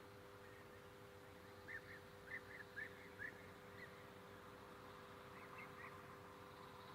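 Faint bird chirping: a quick run of about six short notes, then three more a couple of seconds later, over a steady low hum.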